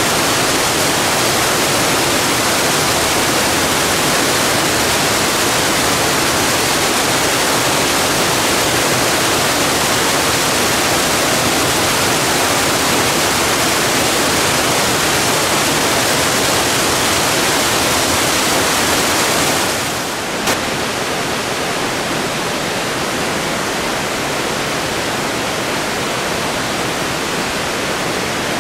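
Waterfall's steady roar of falling water. About two-thirds of the way in it drops a little and turns duller, with a single short click just after.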